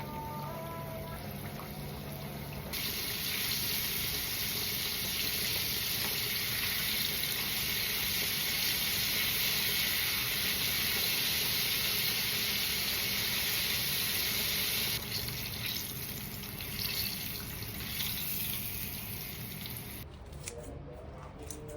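Water running from a kitchen tap into a sink. It comes on about three seconds in, runs steadily, turns uneven and weaker later on, and shuts off near the end.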